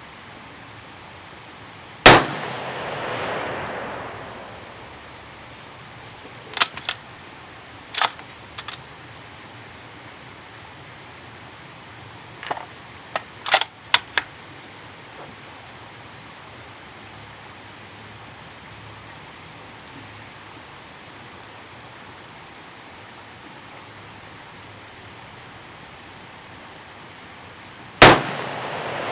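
Two shots from a lightweight 6.5 Creedmoor bolt-action rifle, about 26 seconds apart, each cracking sharply and then rolling away in an echo for a couple of seconds. In between come two short runs of metallic clicks and clacks, the bolt being cycled to chamber the next round.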